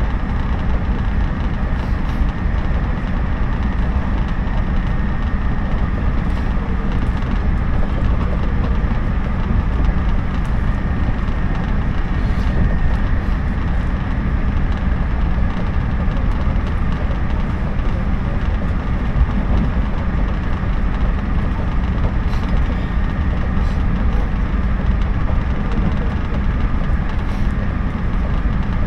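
Cabin noise of a JNR 113 series electric train running at speed: a steady low rumble, with a few faint clicks scattered through it.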